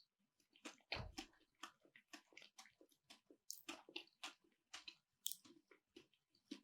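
Close-up chewing of gummy gelatin marmalade: soft, wet mouth clicks and smacks, several a second, faint.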